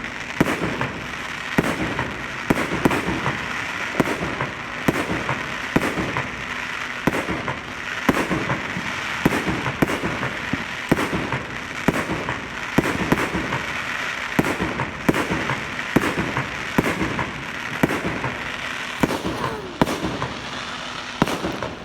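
Fireworks going off: a dense, continuous crackle with sharp bangs coming about twice a second.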